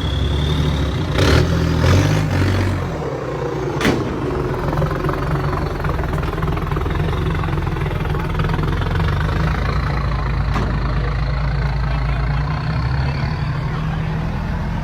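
Large truck engine running with a steady low rumble, surging louder a couple of times early on before settling back, with a few sharp clicks.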